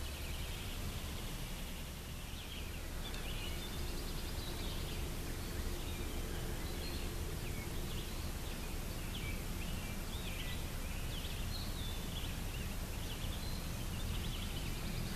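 Outdoor dawn ambience: many short, high bird chirps and calls, starting about three seconds in, over a steady low background rumble.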